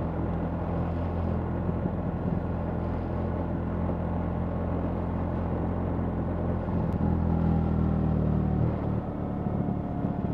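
BMW R 1300 GS boxer-twin engine running under way, with wind and road noise. It grows louder about seven seconds in, then eases off shortly before the end as the throttle is closed.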